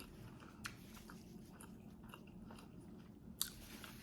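Close-up chewing of a mouthful of food: soft wet mouth clicks and smacks, with a sharper click a little under a second in and another at about three and a half seconds.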